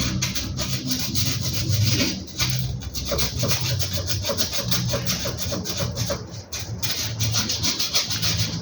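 Sandpaper rubbed in rapid back-and-forth strokes over a rusty metal car part, cleaning off rust before reassembly.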